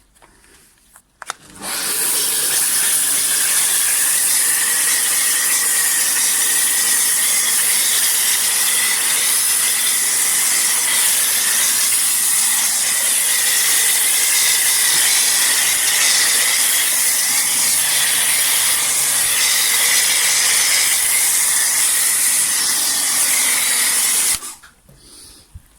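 Pressure washer spraying drying wax through a foam lance: a loud, steady hiss of the spray with a steady high tone over it. It starts about two seconds in and cuts off shortly before the end.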